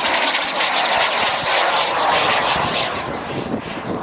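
Small model jet turbine on a half-scale Fox aerobatic glider, running under power with a loud, steady rushing sound. It eases back about three seconds in.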